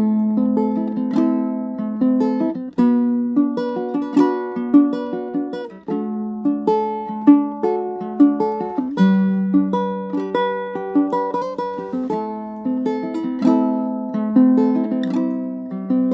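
Solo ukulele playing an instrumental break, fingerpicked notes ringing over a repeating low-note pattern.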